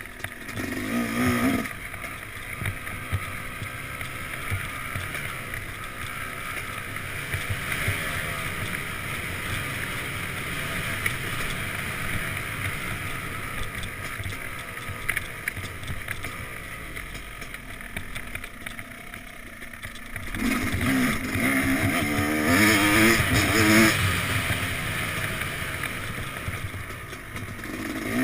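Yamaha YZ250X two-stroke single-cylinder dirt bike engine under a rider's throttle, revving up about a second in and again in a longer burst from about 20 to 24 seconds. In between it runs quieter, with wind and tyre noise.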